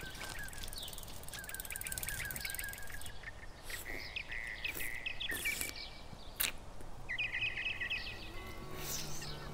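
Small birds chirping over steady outdoor background noise, with one sharp click about six seconds in; low music comes in near the end.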